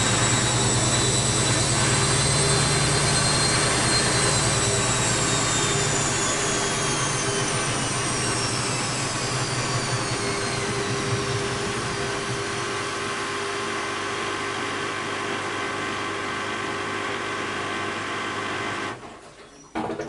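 Bosch WAB28220 washing machine coming down from its 600 rpm final spin: the motor's high whine glides steadily down as the drum slows, then the running sound stops about a second before the end, followed by a brief knock.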